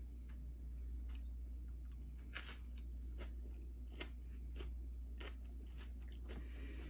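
Close-up crunching and chewing of Doritos nachos, irregular bites with the loudest crunch about two and a half seconds in, over a steady low hum.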